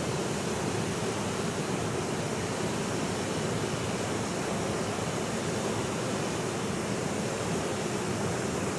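Waterfall: a steady, unbroken rush of falling water, deepest and strongest in the low range.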